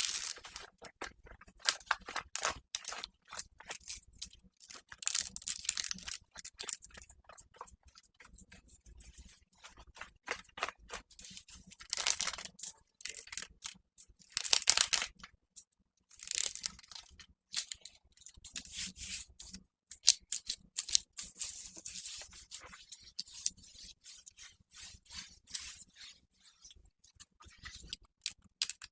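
Close-miked ASMR trigger sounds: irregular rustling, scraping and crinkling of handled material, coming in bursts with short pauses. The loudest bursts come about twelve, fifteen and twenty seconds in.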